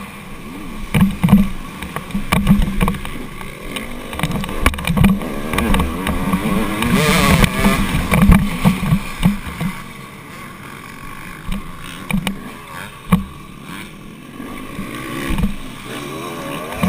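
Dirt bike engine on a motocross track, revving up and down as the rider works the throttle, loudest about halfway through, with irregular low thumps on the microphone.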